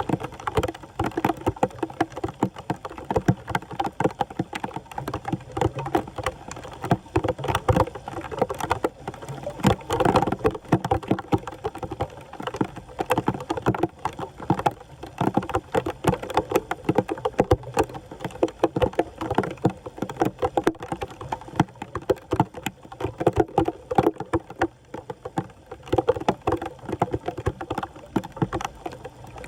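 Floodwater splashing and sloshing in quick, irregular strokes, with many small splashes one after another.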